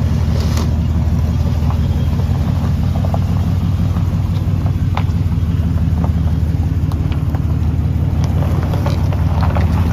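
Ram pickup's 5.7 Hemi V8 idling steadily through dual Dynomax race bullet mufflers, a deep, even exhaust rumble.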